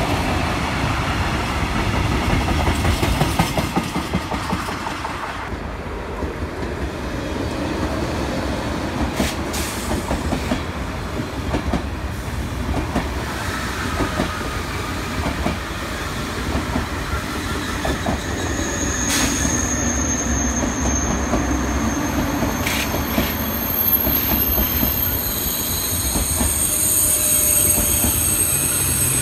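A freight train of tank wagons rolls past, then a double-deck TGV Duplex high-speed train passes at low speed. Its wheels squeal with several high, steady tones in the second half, along with a few sharp clicks.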